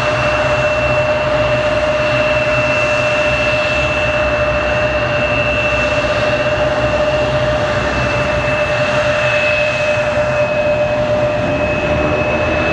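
Jet airliner engines running loud and steady: a broad rush with a constant two-tone whine.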